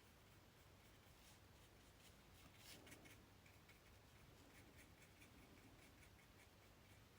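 Faint strokes and dabs of a paintbrush on paper, a soft scratchy sound, slightly louder about three seconds in.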